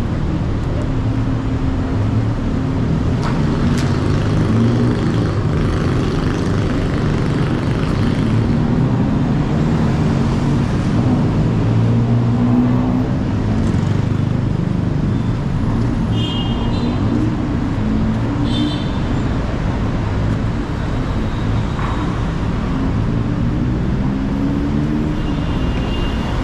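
Motor vehicle traffic with a nearby engine running, its pitch rising and falling, over a steady low rumble. A few brief high-pitched tones sound in the second half.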